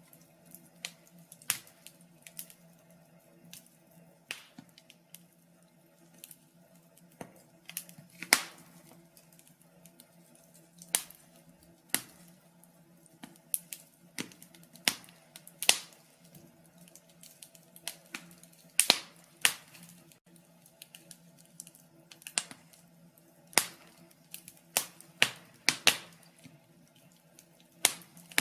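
Wood fire in a fireplace crackling, with irregular sharp pops and snaps, some much louder than others. A faint steady hum runs underneath.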